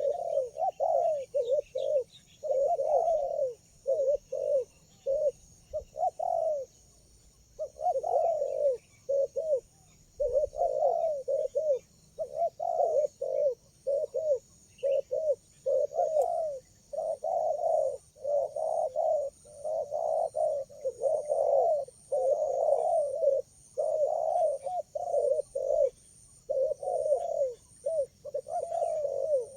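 Spotted doves cooing in quick repeated phrases, calling almost without pause, over a steady high-pitched drone.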